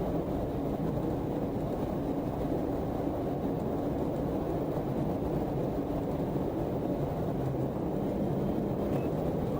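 Steady road and engine noise of a car driving at highway speed, an even low rumble without change, heard through a dashcam in a moving patrol car.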